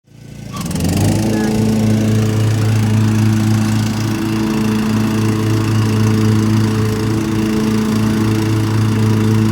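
Small petrol lawn mower engine running steadily at constant speed, fading in over the first second.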